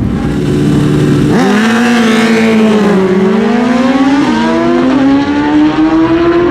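Super Stock drag motorcycle launching hard and accelerating: the engine note jumps sharply about a second in, then climbs in steps as the bike shifts up through the gears.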